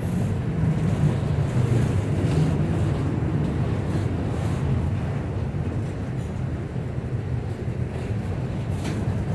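Freight train of autorack cars rolling past close by: a steady low rumble of steel wheels on the rails.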